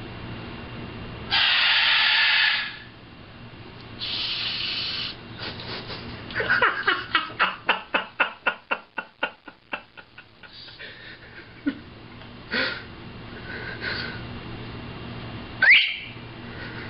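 A pet bird's sounds: two hissing bursts of about a second each, then a run of quick pulsed clicks, about four a second, that fade out, then a few short chirps and one sharp rising whistle near the end.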